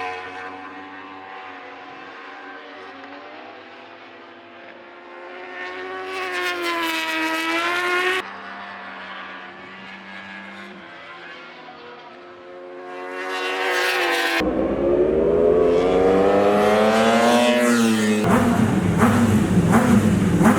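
Racing motorcycles at full speed, one after another, each engine note rising and then falling as it passes. The sound changes abruptly about 8 s and 14 s in, and grows louder after the second change, with several engines heard at once.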